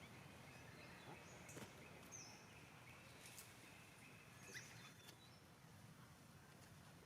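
Near silence: faint outdoor ambience with a low hum, a few short, faint high chirps and a faint held tone that stops about four and a half seconds in.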